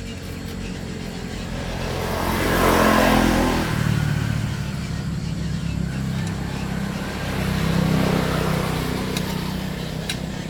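Small generator engine running steadily, its sound swelling louder about three seconds in and again near eight seconds.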